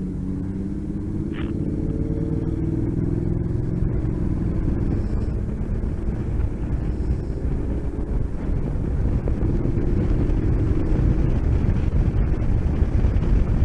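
Motorcycle engine pulling away and accelerating, its pitch rising over the first few seconds and again partway through, with wind rush on the microphone growing louder as speed builds.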